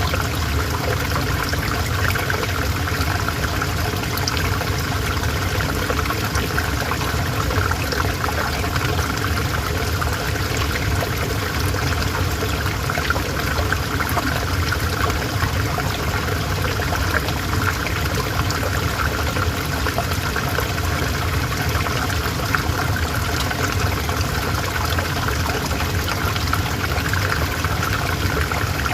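River water flowing steadily, a continuous rushing and trickling with no let-up.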